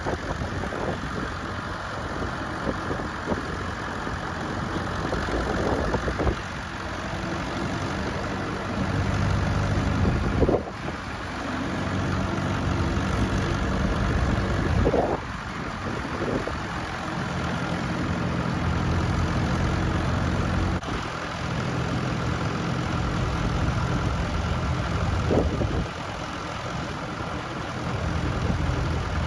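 Tractor engines running, one after another, the engine note and loudness shifting every few seconds as different tractors take over.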